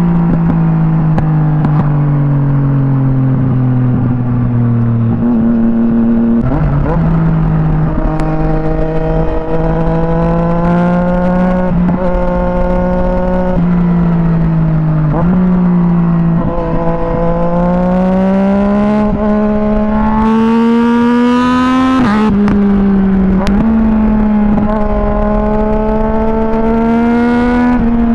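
Yamaha MT-09 SP's three-cylinder engine through an Akrapovič exhaust, ridden on the road. The note climbs slowly under throttle and drops sharply at each gear change, several times over. A brief rushing noise comes about two-thirds of the way through and again near the end.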